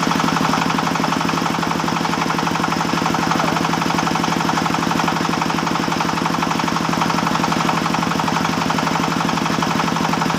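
Chainsaw engine running steadily at a fast, even firing rate, with no change in speed.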